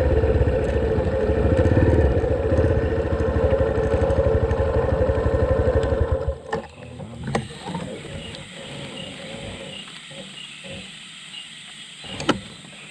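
Trail motorcycle engine idling steadily, then switched off about six seconds in. After it cuts out there are a few light clicks and a faint high chirp repeating about twice a second.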